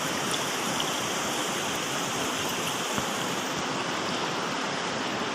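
Floodwater rushing steadily in a swollen river.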